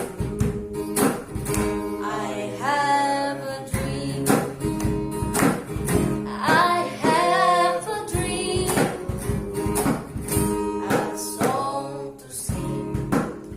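A woman singing a pop ballad with held, wavering notes over a strummed acoustic guitar.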